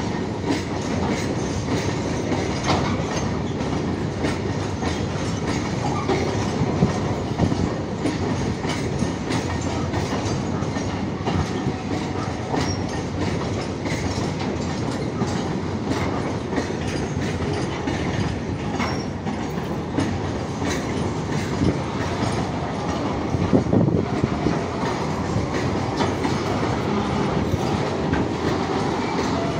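Freight train of bogie tank wagons rolling past: a steady rumble of wheels on rail with a continuous clickety-clack of wheels over rail joints, and a few louder knocks along the way.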